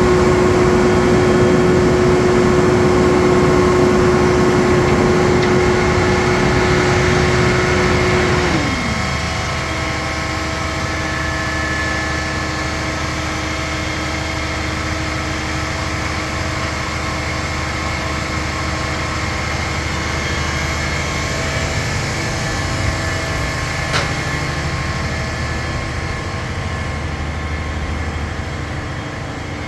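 A crane truck's engine running at raised revs while lifting a load, then dropping to a lower, steady speed about eight seconds in.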